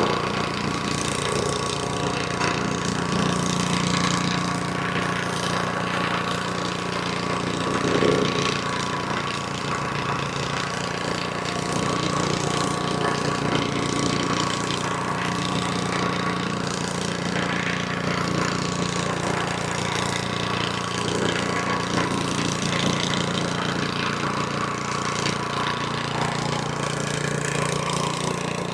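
VEVOR plate compactor's 78.5cc gas engine running steadily at working speed while the vibrating plate compacts fresh driveway stone, with a constant low hum and a steady higher tone.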